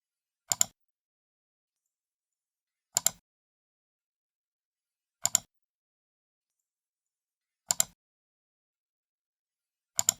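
Computer mouse left button clicked five times, about every two and a half seconds, each click a quick double tick of the button pressing and releasing, with dead silence between.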